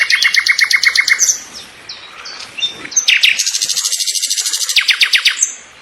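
Small birds chirping in fast repeated runs of about ten notes a second: one run in the first second, and a longer, denser trill from about three seconds in, with scattered calls between.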